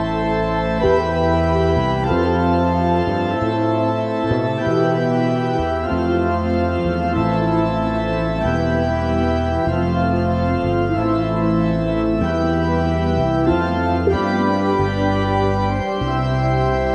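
Background music of slow, sustained organ-like keyboard chords, the bass notes shifting every second or two.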